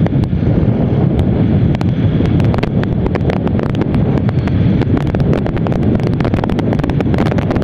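Wind rushing over the microphone of a motorcycle riding at highway speed: a loud, steady low rush, with crackling clicks from about two and a half seconds in.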